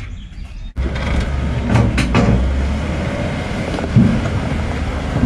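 A vehicle engine running steadily with a low rumble, with a couple of short knocks.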